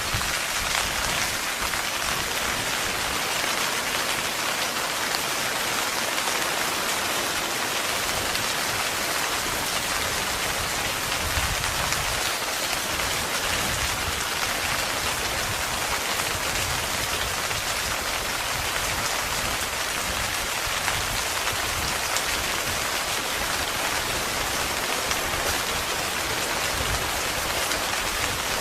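Heavy rain falling steadily on a tent, a dense, even patter of drops.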